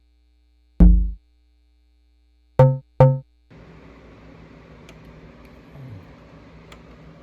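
Behringer Syncussion SY-1 analog drum synthesizer: three electronic drum hits with fast decay, one low hit and then two quick higher-pitched ones. Then a quieter sustained noisy drone from the synth, with a short downward pitch swoop partway through.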